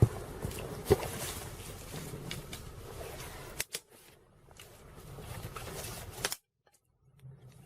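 Dry brushwood rustling with sharp snaps and clicks as it is handled and laid on a small campfire. The sound cuts out abruptly about six seconds in.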